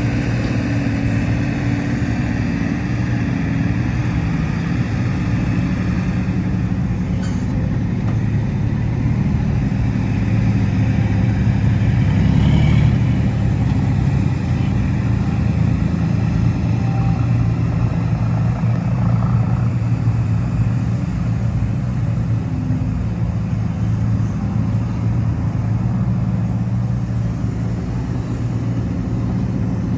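Heavy diesel earthmoving machinery running steadily under load, its engine note swelling slightly about twelve seconds in.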